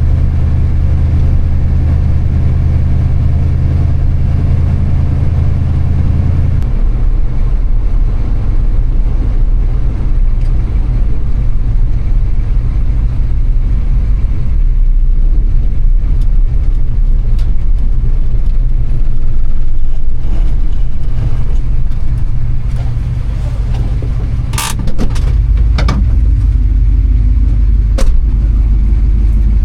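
1976 Ford F-250 pickup underway, a steady low engine-and-road rumble that changes character about six and a half seconds in, with a few sharp clicks in the last several seconds.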